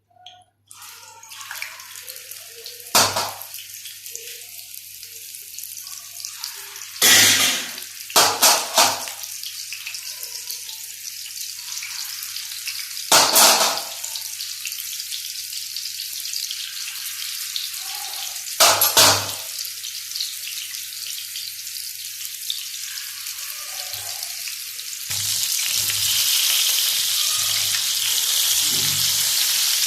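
Mutton seekh kababs sizzling as they fry in hot oil on a tawa, with a few loud knocks, the loudest cluster about seven to nine seconds in. The sizzling grows louder near the end.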